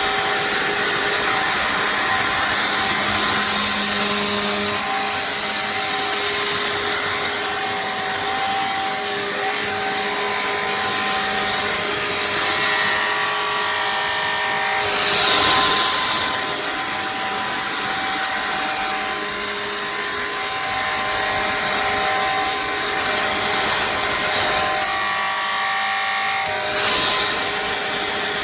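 Shark cordless pet stick vacuum running in its carpet setting while being pushed over carpet: a steady motor whine of several tones over an airflow hiss, with brief swells in the hiss about halfway through and near the end.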